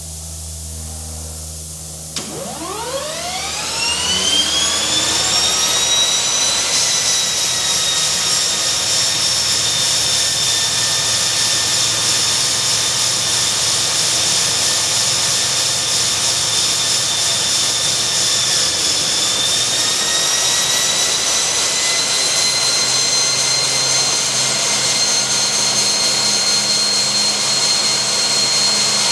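Kodiak 100's Pratt & Whitney PT6A turboprop spooling up for a compressor wash. About two seconds in its whine rises quickly, then holds steady, and edges a little higher in pitch about twenty seconds in.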